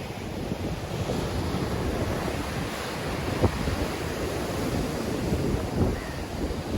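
Sea waves breaking and washing on the shore in a strong wind, with wind buffeting the microphone. A brief sharp knock about three and a half seconds in.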